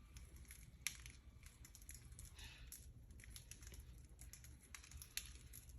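Faint, irregular small clicks and ticks of parakeets pecking at and cracking hard seed food.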